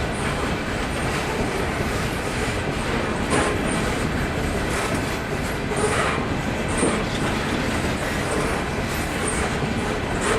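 Freight train cars rolling past, wheels clacking over rail joints, with a few brief high wheel squeals.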